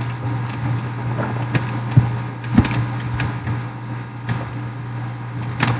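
A steady low mechanical hum with scattered sharp clicks and knocks.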